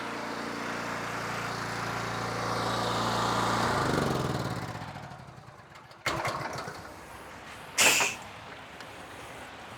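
Honda GX390 engine on a belt-drive pressure washer running steadily, then shut off about four seconds in, its sound falling away. A short, loud burst of hiss comes near the end.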